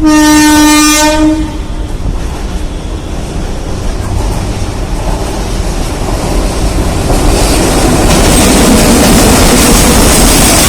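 WAG-7 electric locomotive sounding its horn once, a loud blast of about a second and a half. Then the noise of the loaded coal freight train running past grows louder and stays loud near the end.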